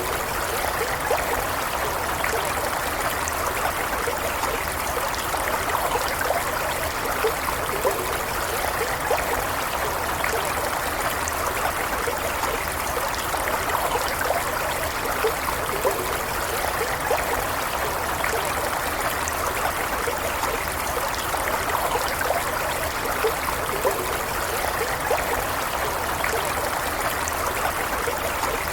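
A small stream running steadily, water trickling and burbling over stones.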